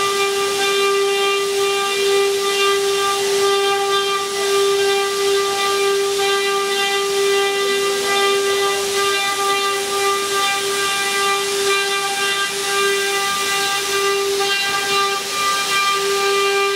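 Multi-head 4-axis rotary CNC wood router carving, its spindles giving a steady high whine over a continuous hiss.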